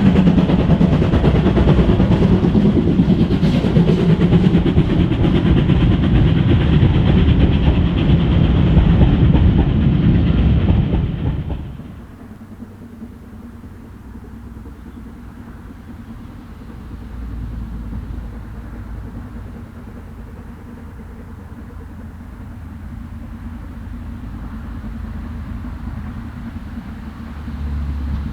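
A steam-hauled train passing close by, loud and dense with wheel noise on the rails. About twelve seconds in it cuts off abruptly, leaving a much quieter low rumble.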